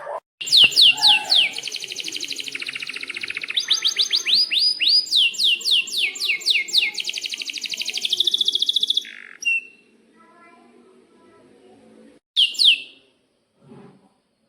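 Domestic canary singing: a fast rolling trill run through with loud, sharp down-slurred whistled notes, lasting about nine seconds before it stops. Two more sharp down-slurred notes come a few seconds later.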